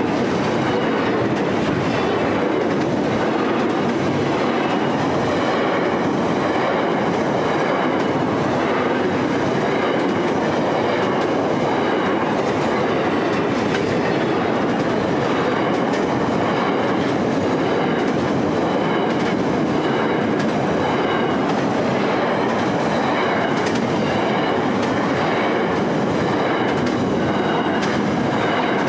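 Container well wagons of a long intermodal freight train rolling past at speed: a steady, loud rumble of steel wheels on rail with the clickety-clack of wheels over the rail joints.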